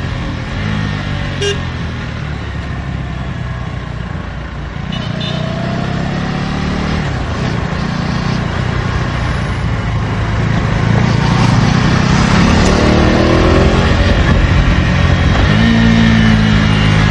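KTM Duke 250 Gen3's single-cylinder engine running through its stock exhaust while riding, its pitch falling and rising as the throttle is rolled off and opened through the gears. It gets louder from about two-thirds of the way in.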